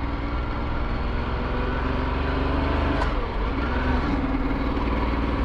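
Ducati Multistrada 1260S motorcycle's V-twin engine running under way, with wind and road rush behind it; the engine note drops about three seconds in and picks up again about a second later.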